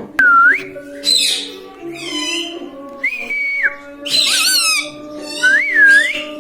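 Ring-necked parakeet giving a run of about six short, high whistles and rippling trills, some dipping and rising in pitch, over background music.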